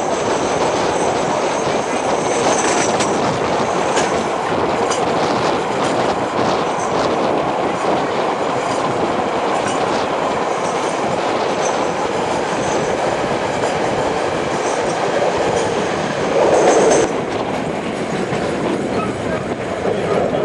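Passenger train running along the track, heard from aboard the moving carriage: a steady rumble with scattered clicks of the wheels over rail joints and a faint high wheel squeal in the first few seconds. A brief louder swell comes about three-quarters of the way through.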